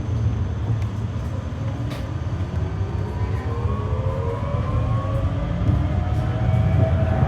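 GTZO tram running, heard from on board: a steady rumble of wheels on rail with a few light clicks. About two seconds in, a motor whine starts rising in pitch as the tram picks up speed.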